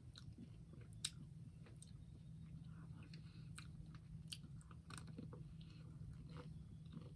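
Faint chewing and biting on a Magnum double caramel ice cream bar, with scattered small clicks and crackles; the sharpest click comes about a second in. A low steady hum lies underneath.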